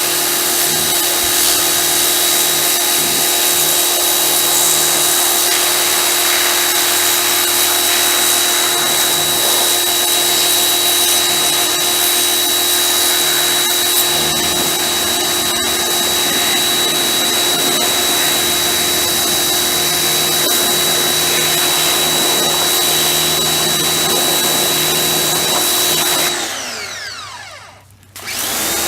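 Electric pressure washer motor running steadily with a hiss of spray. Near the end the motor winds down and stops for a moment, as when the trigger is let go, then starts again abruptly.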